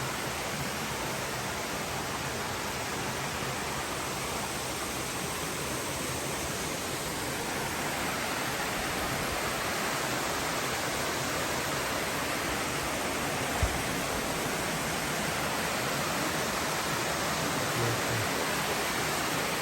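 Steady rushing of a waterfall, a little louder from about eight seconds in, with one brief low knock about fourteen seconds in.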